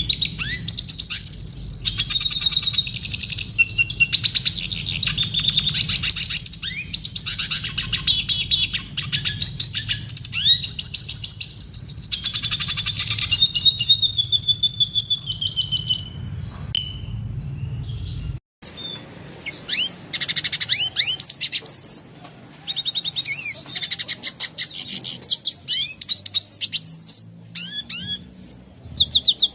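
Red siskin singing: a long, continuous run of rapid twittering trills and quick sweeping notes, a tutor song used to train captive birds. The sound breaks off for an instant about two-thirds of the way through, then the song picks up again.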